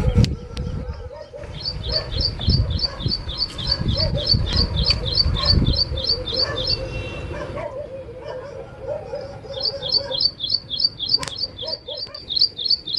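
A bird calling a fast, even string of short high chirps, about four a second, in two runs with a pause of a few seconds between them. A low rumble sits underneath during the first half.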